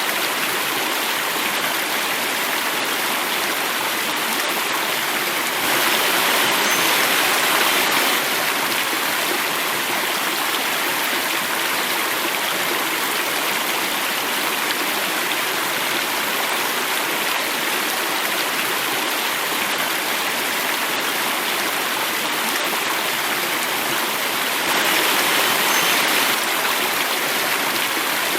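Running water of a small cascade flowing and falling, a steady rush that swells louder twice, about six seconds in and again near the end.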